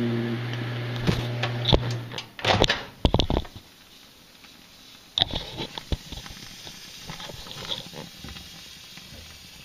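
Microwave oven running with a steady low hum that stops about two seconds in, followed by a few sharp clicks and knocks and then quieter handling noises.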